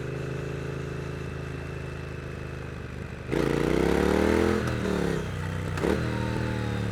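Stock 2022 Triumph Street Twin's 900 cc parallel-twin engine running steadily at low revs, then about three seconds in the throttle is snapped open and the revs climb hard for about a second before dropping back. A brief sharp knock comes near the end, then the engine settles into steady running.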